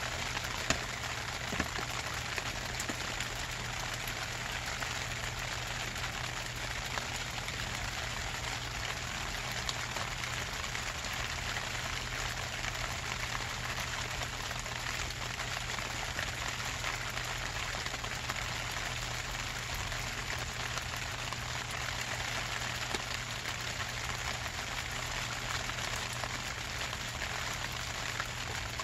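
Steady rain falling, the drops pattering on plastic sheeting, with a couple of sharper drop ticks in the first two seconds.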